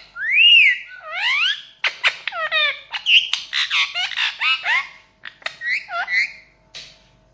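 Ringneck parrot giving a run of loud whistles and squawks that sweep up and down in pitch, some in quick strings, stopping about six seconds in.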